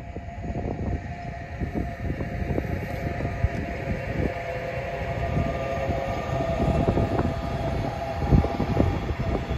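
A train running past on the line: low rumble with irregular clacks from the wheels on the track, and a steady whine that grows louder through the middle.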